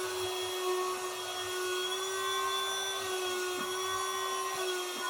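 A small electric motor running steadily: a constant hum with a faint whine above it, over a steady hiss.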